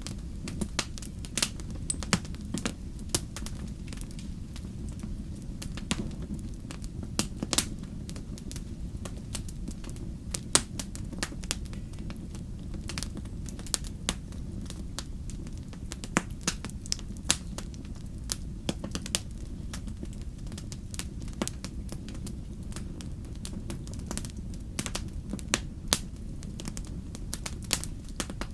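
Wood fire crackling in a fireplace: a steady low rumble of flame with irregular sharp pops and snaps, a few louder than the rest.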